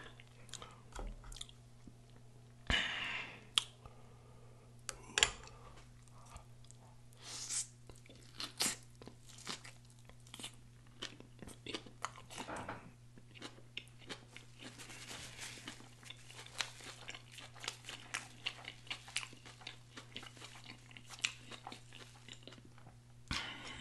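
Close-miked chewing and mouth sounds of a person eating a burger and fries with his fingers: many short wet smacks, clicks and soft crunches, with a few louder bites and finger-licks spread through.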